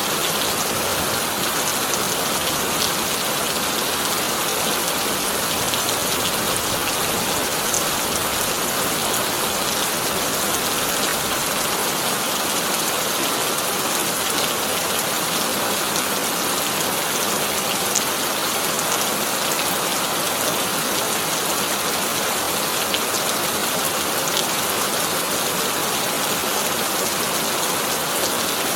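Heavy rain falling steadily on a corrugated tin roof, an even hiss with scattered sharper drop ticks. No thunder.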